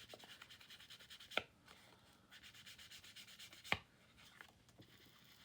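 Ink rubbed onto notebook paper in quick, repeated short strokes: a faint, soft scrubbing. It is broken by two sharp clicks, one about a second and a half in and one near four seconds.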